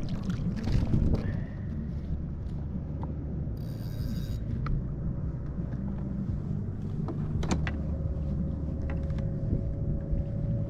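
Clicks and knocks of a small snook being handled and unhooked aboard a kayak, over a steady low rumble of wind and water on the microphone. A brief hiss comes about four seconds in. A faint steady hum sets in after a sharp click about two-thirds of the way through.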